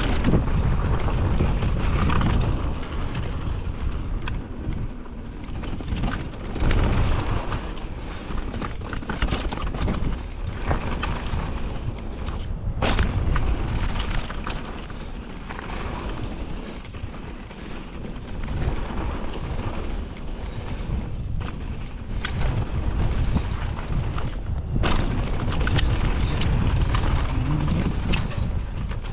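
Mountain bike running down a rough dirt trail: wind buffets the microphone in a low, uneven rumble, over frequent sharp clicks and knocks from the bike rattling over the ground.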